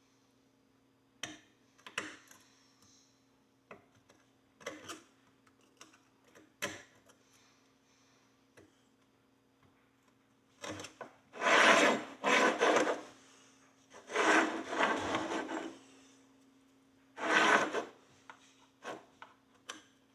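A hand tool scraping and rubbing at an old horseshoe to clean it. A few light taps and clicks come first, then three spells of scraping strokes in the second half.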